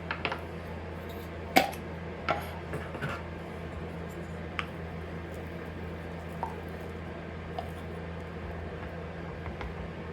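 Kitchen dishes and utensils being handled, a scattering of short clinks and knocks, the sharpest about a second and a half in, over a steady low hum.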